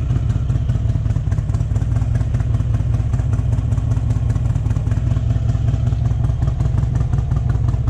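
A 2008 Harley-Davidson Electra Glide's V-twin engine running steadily through Vance & Hines exhaust pipes, with a deep, even low rumble.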